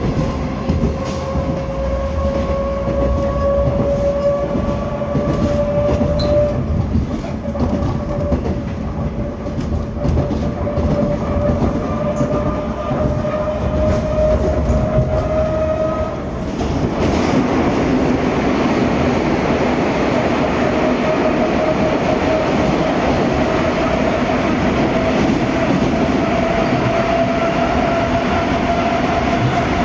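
Moscow Metro 81-740/741 'Rusich' train running between stations, heard from inside the car: the traction motors' whine rising slowly in pitch as the train gains speed, over wheel-on-rail rumble with clicks from the rail joints. About 17 s in, the running noise suddenly gets louder and rougher, and the whine then goes on rising.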